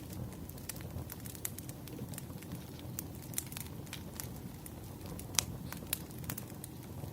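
Burning firewood crackling, with irregular sharp snaps and pops over a low, steady rumble of the fire. The loudest pop comes a little past five seconds in.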